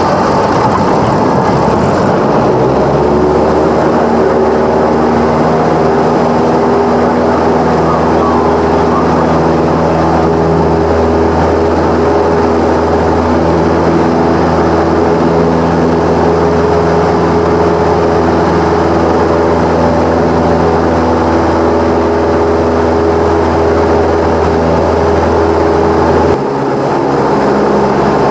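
Cessna 172's engine and propeller droning steadily, heard inside the cabin. About 26 seconds in, the deepest part of the drone drops away suddenly and the sound gets a little quieter.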